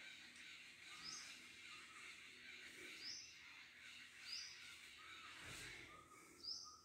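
Faint short bird calls repeating four times, one every second or two, over quiet room tone.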